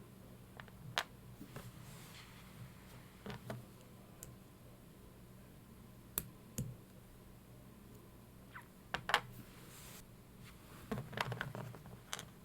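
Scattered light clicks and taps, a few at a time and at irregular intervals, over a faint steady low hum.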